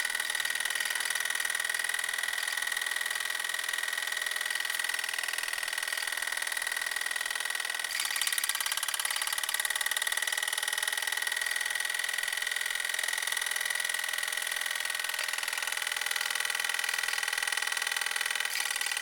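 Mamod TE1a toy steam traction engine running steadily, its single oscillating cylinder chuffing rapidly, with a steady high-pitched tone through it.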